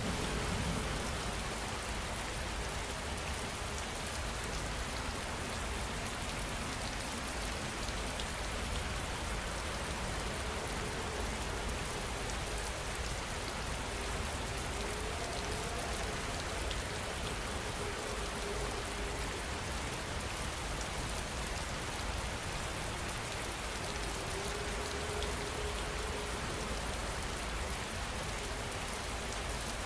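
Heavy rain falling steadily, with the tail of a thunder rumble dying away in the first second.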